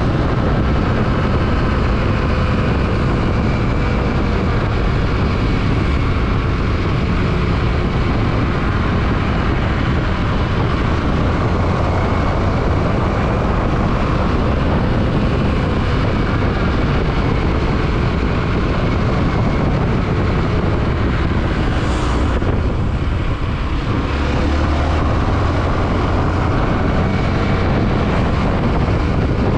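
Yamaha WR155R motorcycle's single-cylinder engine running at road speed under heavy wind rush on the microphone, its note rising and falling gently. A short sharp sound cuts in about 22 seconds in.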